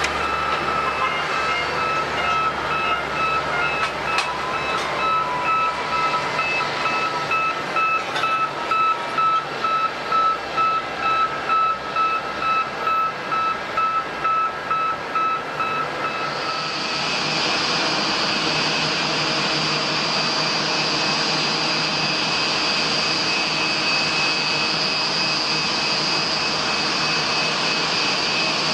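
Jet airliner engines whining. For the first half the tones pulse in a regular beating rhythm; about two-thirds of the way in the sound changes to a steadier, higher whine as the engines spool up.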